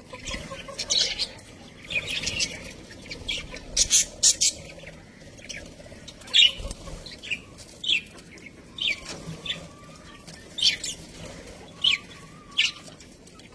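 Budgerigars chirping: many short, sharp, high chirps coming irregularly, several times a second at the busiest moments.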